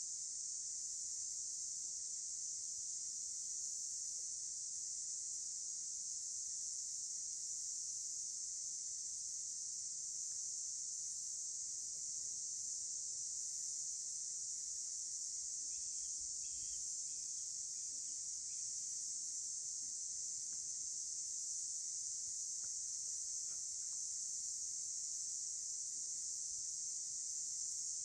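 Insect chorus: a steady high-pitched drone that never breaks, with a few faint bird chirps about halfway through.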